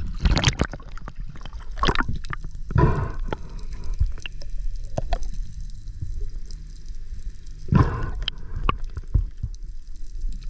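Water gurgling and sloshing, with louder surges about half a second in, around two to three seconds in and near eight seconds, and small drips and clicks between them.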